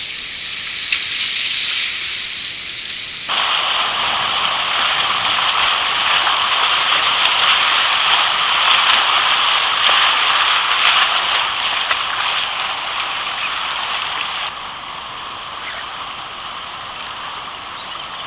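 River water rushing around a kayak, a steady hiss that gets suddenly louder about three seconds in and drops back just before the end.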